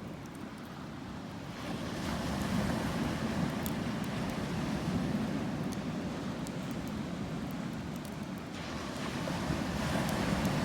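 Sea waves washing ashore in slow surges: one swells up a second and a half in and eases off near the end, as another starts to build. A campfire is heard as faint sharp crackles throughout.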